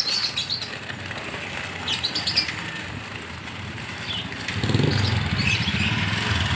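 Small caged birds chirping and fluttering their wings, with scattered short high calls. About four and a half seconds in, a low engine rumble starts and keeps going under them.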